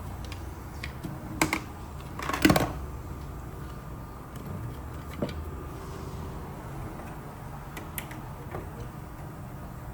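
Small clicks and rattles of hands and tools working on the wiring, a few separate knocks with the loudest about two and a half seconds in, over a steady low hum.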